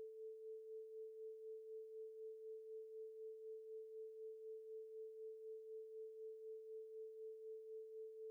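Faint synthesized pure tone held on one pitch just under 500 Hz, swelling and fading gently about three times a second: the quiz's background tone for the thinking time.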